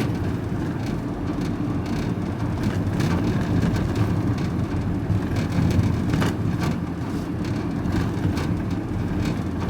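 Van driving along a road, heard from inside the cab: steady engine and tyre noise, with a couple of brief knocks or rattles.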